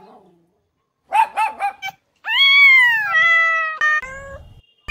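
Cat meowing: a few short, quick mews, then one long meow that slowly sags and drops in pitch in steps before ending.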